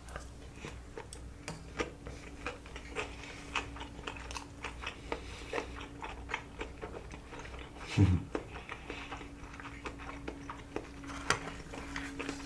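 Close-up chewing and biting of sushi: a steady run of small wet clicks and crunches, with one louder low thump about eight seconds in. A faint steady hum sits underneath.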